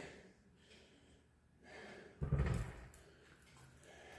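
A man's short, breathy exhale a little over two seconds in, a sigh of relief; otherwise near quiet.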